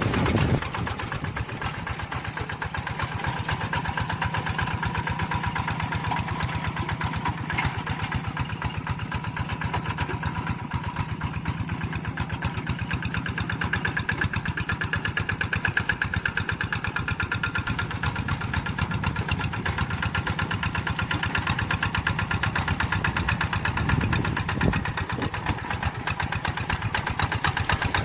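Tractor engine running steadily with an even, fast pulse.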